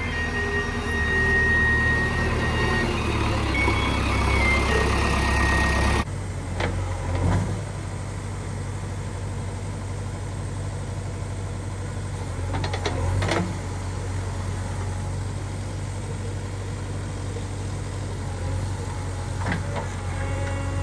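JCB 3DX backhoe loader's diesel engine running steadily, with a few sharp knocks or clunks scattered through. The first part is louder, with steady held tones over the engine, and it ends abruptly about a third of the way in.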